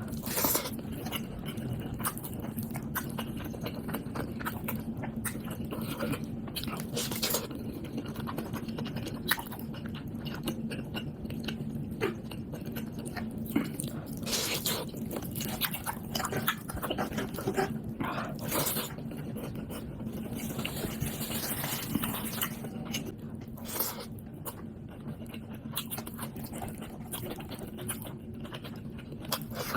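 Close-up chewing and biting of pork, with irregular wet clicks, smacks and crunches from the mouth. A steady low hum runs underneath.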